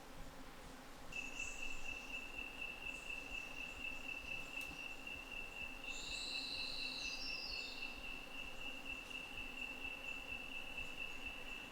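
Insect calling in the forest: one steady, high-pitched continuous trill that starts about a second in and holds unbroken, with a brief chirping call of a few falling notes around the middle.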